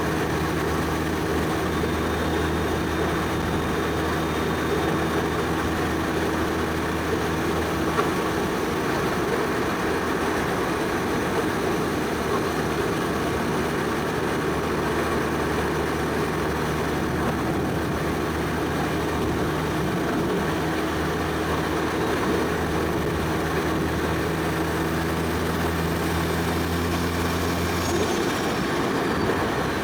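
Single-turbo Toyota 1JZ 2.5-litre inline-six in a Soarer running at a steady cruise, with road noise underneath. Its steady engine note changes near the end.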